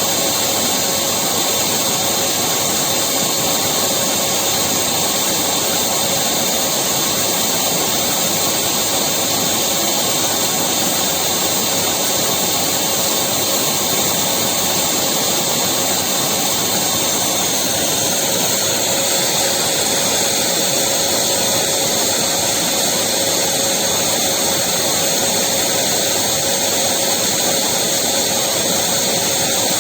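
Electric vacuum cleaner running continuously, a steady rushing whoosh with a constant whine.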